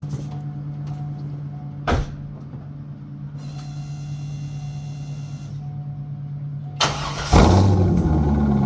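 1998 C5 Corvette's 5.7 L LS1 V8 cold starting. A steady low hum, a sharp click and a faint whine come first. About seven seconds in the starter cranks briefly and the engine catches, jumping to a loud, steady cold-start idle.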